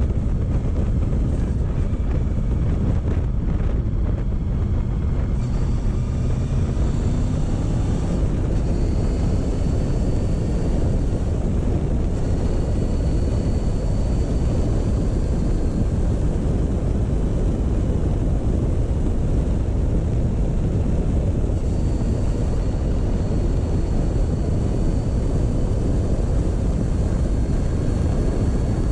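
Motorcycle engine running steadily at a slow cruise, mixed with wind rushing over the microphone.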